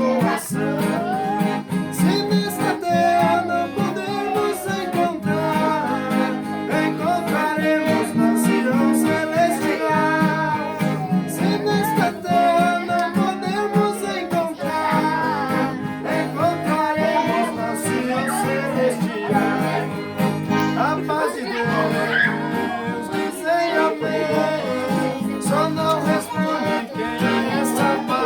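Accordion and acoustic guitar playing a hymn, with a man singing the melody.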